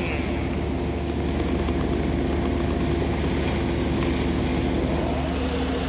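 An engine running steadily at a low, even speed, giving a constant hum with a few steady tones.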